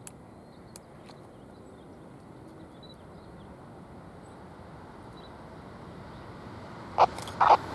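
Train approaching, its rumble building gradually, with faint bird chirps early on. Near the end there are two short, loud, sharp sounds about half a second apart.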